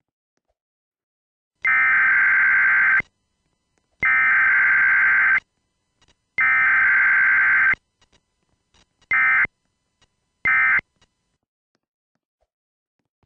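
An electronic alarm tone beeping at one steady pitch: three long beeps of about a second and a half each, then two short ones.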